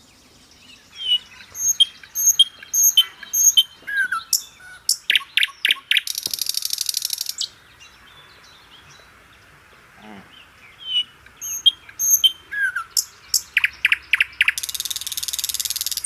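Birds singing: sharp repeated chirps, downward-sliding whistles and a fast buzzy trill. The same phrase comes twice, with a quiet gap in between.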